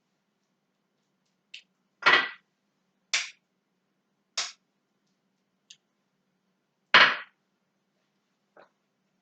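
Kitchen utensils and dishes being handled: a run of short, separate knocks and clatters, seven in all, the two loudest about two and seven seconds in.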